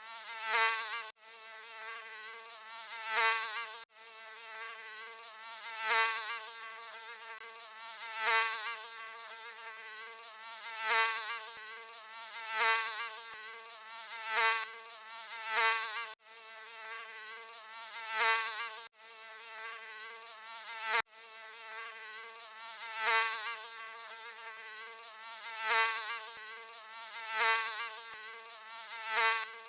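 Mosquito wing buzz, a thin whine that swells louder and fades about every two seconds, as if the insect is flying close past and away again. Brief gaps every few seconds break it, like a short recording looped.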